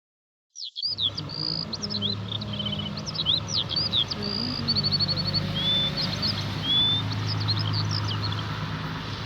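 Several birds chirping and calling, with quick varied whistles and short trills, over a steady low hum. The sound comes in suddenly about half a second in.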